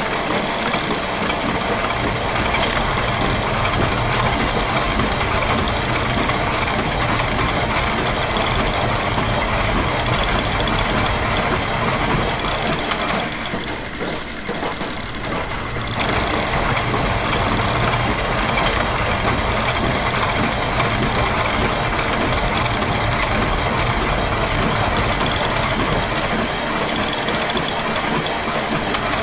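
Dense, continuous layered loops of machine sounds, mostly ratchet clicking and gear clatter over a steady mechanical hum, in an industrial ambient mix. About 13 seconds in, the bright clicking layer drops out, then it comes back about 3 seconds later.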